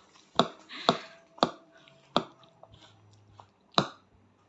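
A small child eating pasta: five sharp clicks of eating noise, about half a second apart at first and then spaced further.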